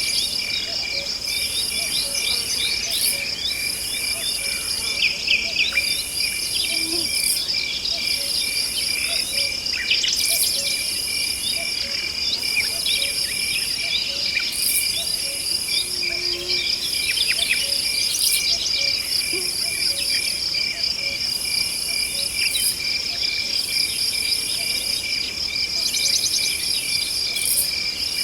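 Forest ambience of insects trilling steadily, with a higher insect song switching on and off every second or two and scattered short chirping calls over it.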